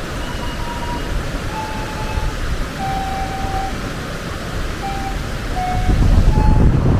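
Steady rush of a waterfall, with an Andean flute faintly playing a slow melody of held notes over it. A low rumble swells near the end.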